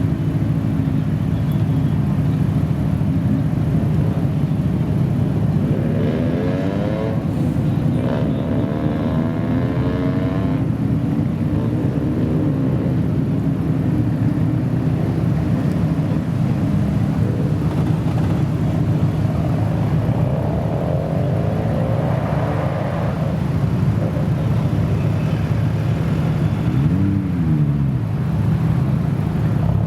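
Modified car engine idling with a steady low drone. Other engine notes rise and fall over it now and then: once about a third of the way in, again past the middle, and briefly near the end.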